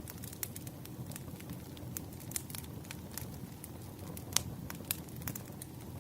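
Wood campfire burning: a steady low rumble of flames with scattered sharp crackles and pops, the loudest two about four and a half and five seconds in.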